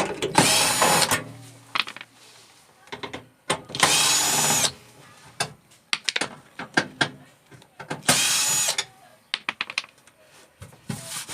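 Power drill fitted with a screwdriver bit running in three short bursts of about a second each, backing screws out of a microwave's metal casing. Light clicks and knocks of handling come between the bursts.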